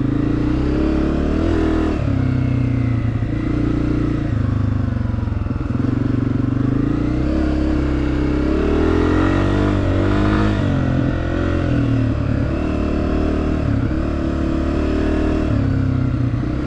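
Honda CRF250F dirt bike's single-cylinder four-stroke engine running as it is ridden, the revs stepping up and down with the throttle, and one smooth rise and fall in pitch about nine to ten seconds in.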